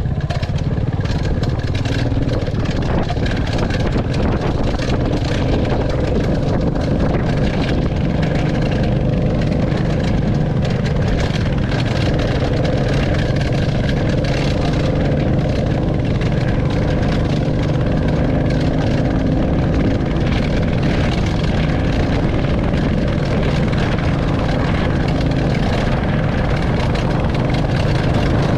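Royal Enfield Classic 350 single-cylinder engine running steadily under way, its exhaust note holding an even pitch.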